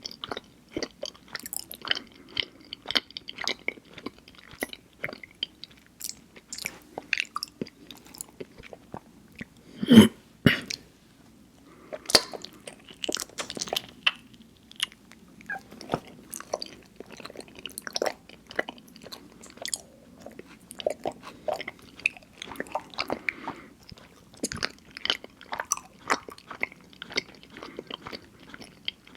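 Close-miked chewing of mochi ice cream: wet, sticky mouth sounds made of many small clicks and smacks. About ten seconds in, one louder thump stands out.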